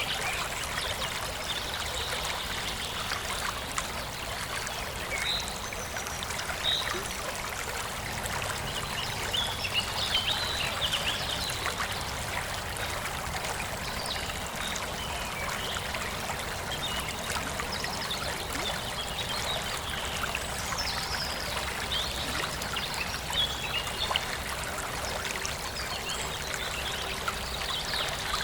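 Forest stream flowing and trickling steadily, with small birds chirping now and then.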